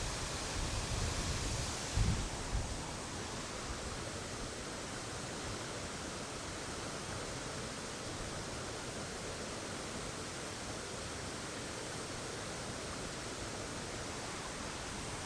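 Steady rushing of a waterfall, with a few low bumps in the first couple of seconds.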